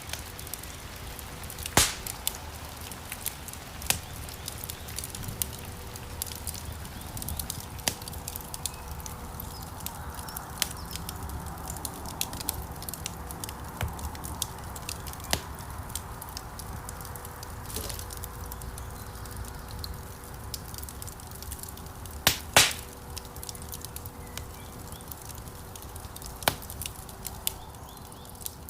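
Wood fire burning in a fireplace: a steady low rush of flames under frequent irregular crackles and sharp pops, with two louder snaps, one about two seconds in and one a little past twenty seconds.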